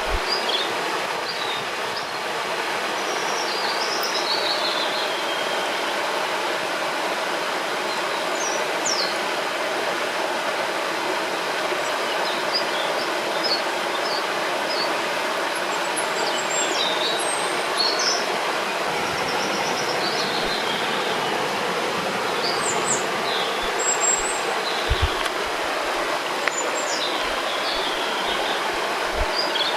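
A river rushing steadily, with small birds chirping and trilling at intervals above the water.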